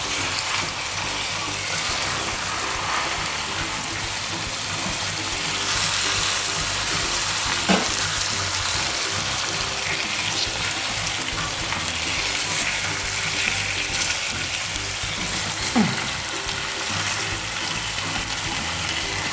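Whole chicken sizzling in its own juices in a pot, with a steady hiss and a utensil knocking twice against the pot as the chicken is turned over.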